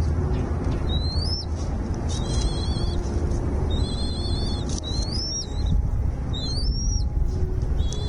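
Small bird repeatedly calling high: short rising whistles alternate with chattering double-note phrases, about every second or two, over a steady low rumble.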